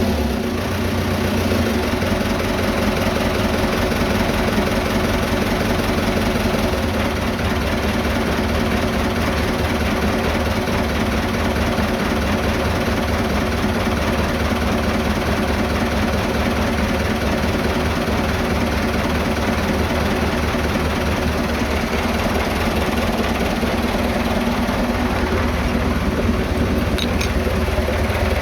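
Vintage diesel tractor engine idling steadily, running again after refusing to start.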